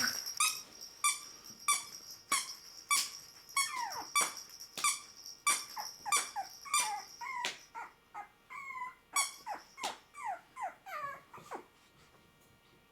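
Chihuahua puppy whimpering in a long run of short, high-pitched squeaky cries, many falling in pitch, about two a second, stopping shortly before the end.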